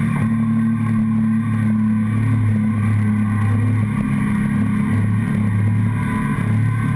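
Motorcycle engine running at a steady cruising speed, picked up through a camera mounted on the fuel tank: a steady low drone whose pitch holds with only slight dips now and then.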